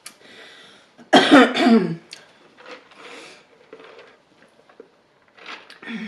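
A woman coughing: one loud, harsh cough of about a second near the start, followed by softer breaths and throat-clearing sounds.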